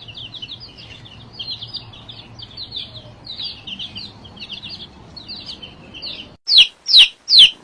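Small bird chirping in quick high twitters, then four loud, short calls that fall in pitch near the end.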